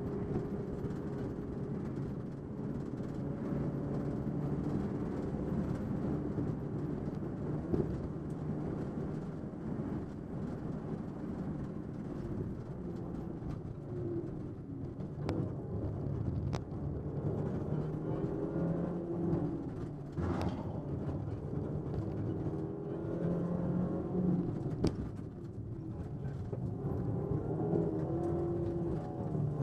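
Rally Ford Fiesta's engine heard from inside the cabin, its pitch climbing and dropping back as the car accelerates and brakes along the stage, over steady tyre and road noise. A few sharp knocks break through.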